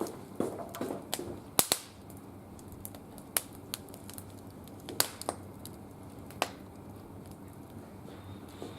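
Wood fire burning in a barbecue grill, crackling with sharp pops at irregular intervals over a low steady hiss, the loudest pop about one and a half seconds in.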